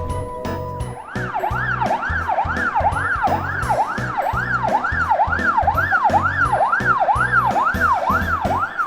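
Police siren wailing in quick rising-and-falling sweeps, about two a second, starting about a second in, over background music with a steady beat.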